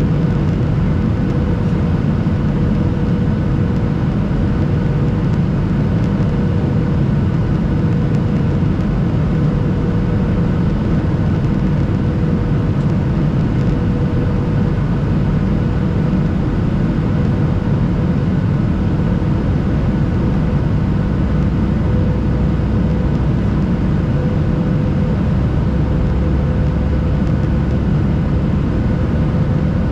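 Steady cabin noise of a Boeing 737-800 in the climb: the CFM56 engines' constant drone with a steady whine over it, with no change throughout.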